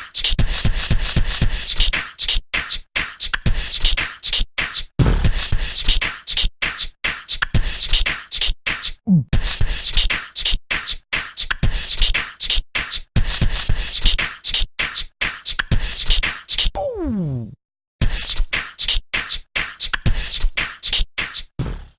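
Fast, choppy percussive beat with short breaks and a few falling pitch sweeps.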